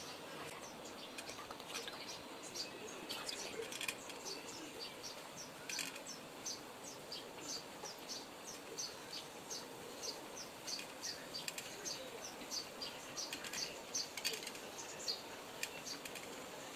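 Small birds chirping faintly: short, high chirps repeated several times a second.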